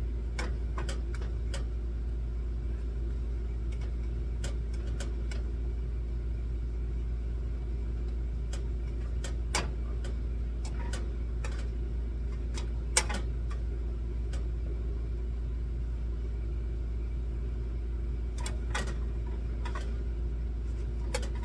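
A steady low machine hum, like a motor running, throughout, with scattered light clicks and taps and one sharper tap about 13 seconds in.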